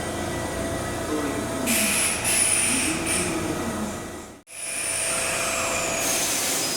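Kintetsu commuter train moving at a station platform: running rumble with high squeals that slide down in pitch, and a rush of hissing air about two seconds in. The sound drops out abruptly about four and a half seconds in, then the train noise resumes with another long falling squeal.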